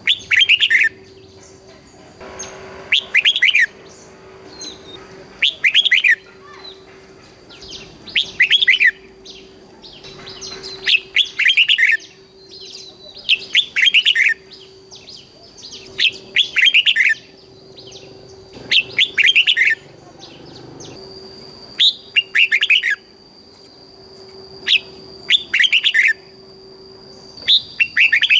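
Red-whiskered bulbul singing short, loud, whistled song phrases, one every two to three seconds, over a faint steady hum.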